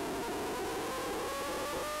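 Motorcycle engine buzzing, its pitch rising slowly as the bike accelerates, over a steady hiss of wind.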